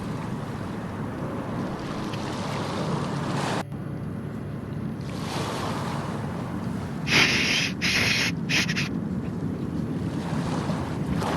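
Carlton suitcase's newly fitted wheels rolling over pavement during a speed test, a steady rumble. It breaks off briefly a few seconds in, and three short, harsher bursts of noise come near the middle.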